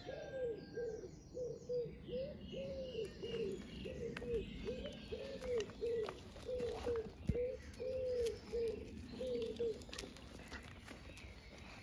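A bird calling a long run of short, low cooing notes, about two a second, which stops about ten seconds in. Fainter, higher birdsong chirps sound behind it.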